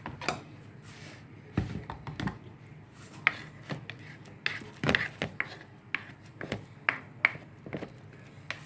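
Irregular knocks and clicks of a utensil against a bowl as poundo yam dough is turned and mixed.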